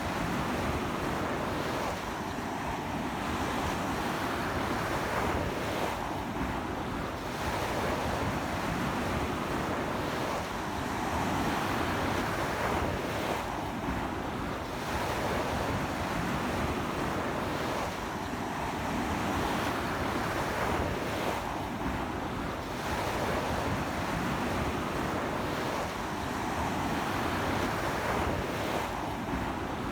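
Ocean surf breaking steadily on a sandy beach, swelling and easing every few seconds, with strong sea wind buffeting the microphone.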